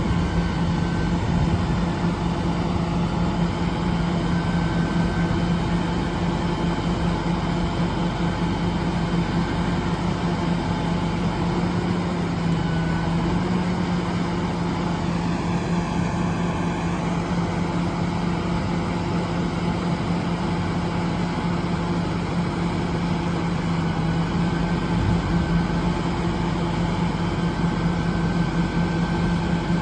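Western Star heavy truck's diesel engine running steadily, a constant low hum that holds the same pitch throughout.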